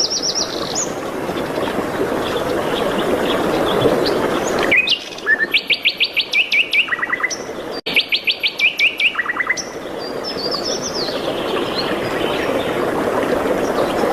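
Songbirds singing: rapid trilled phrases of quickly repeated high notes start about five seconds in and come again about three seconds later, with scattered chirps elsewhere. A steady rushing background noise fills the stretches before and after the trills.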